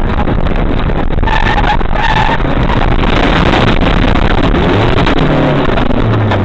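A heavy truck's engine and running gear, loud and steady, with two short higher-pitched tones a little over a second in.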